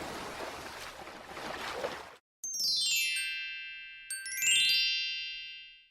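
A rushing noise for about two seconds that cuts off abruptly, then two quick downward runs of sparkling chime tones, each ringing on and fading away: a cartoon magic or transition sound effect.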